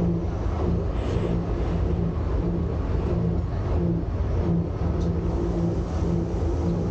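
Electric rack-railway train running: a steady low rumble with a hum that breaks up in an even pulse.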